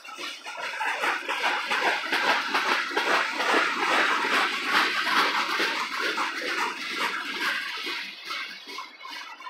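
Freight train tank cars rolling past at close range: the steel wheels run on the rails with a steady clatter and many quick clicks.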